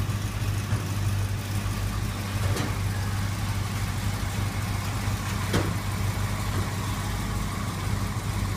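The 1969 Mustang GT's 351 V8 idling steadily with the hood up. It now runs smoothly, after a split vacuum cap that made it chug was replaced. Two light clicks come about a third and two-thirds of the way in.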